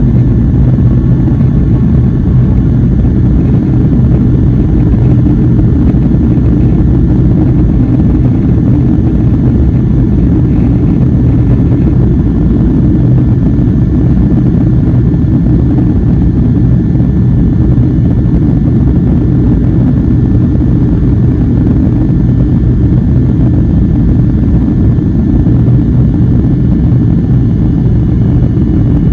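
Airliner cabin noise: a loud, steady low rumble of engines and airflow heard from a window seat.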